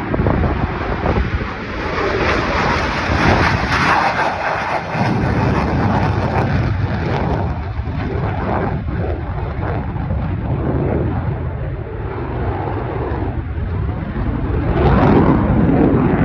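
Loud, continuous jet engine noise from an F-22 Raptor's twin turbofans. It swells about three to four seconds in, eases through the middle and swells again near the end.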